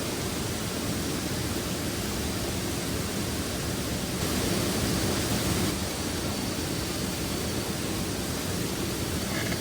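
Steady rushing noise with no pitch to it, a little louder and brighter for a second or so around the middle, with a few faint clicks near the end.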